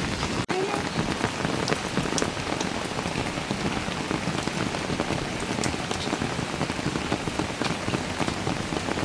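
Heavy rain falling steadily, a dense hiss with many single drops striking close by; the sound cuts out for an instant about half a second in.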